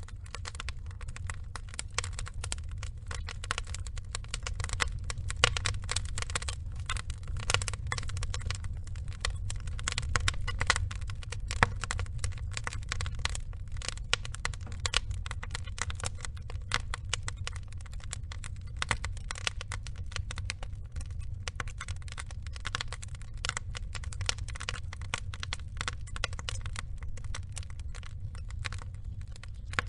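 Log fire burning, the wood crackling and popping in quick, irregular snaps over a steady low rumble of the flames.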